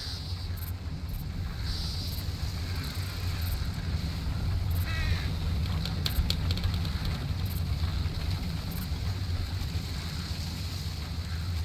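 Outdoor summer nature ambience: a steady low rumble under faint high chirring, with one short harsh bird call about five seconds in and a few light clicks just after.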